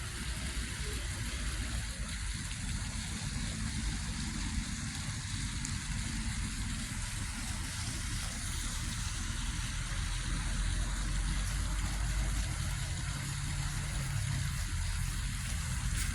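Motor vehicle engine rumbling steadily over an even hiss, the rumble growing louder about ten seconds in.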